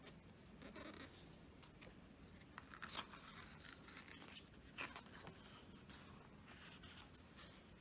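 Faint rustling of photobook pages being turned by hand, with two slightly louder page flips, about three seconds in and near five seconds.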